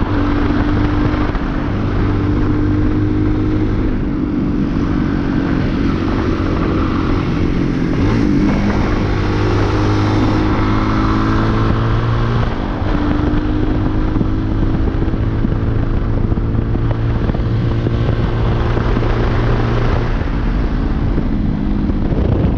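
Chinese 250 cc dirt bike engine running while ridden. Its pitch holds steady for stretches and drops and rises a few times.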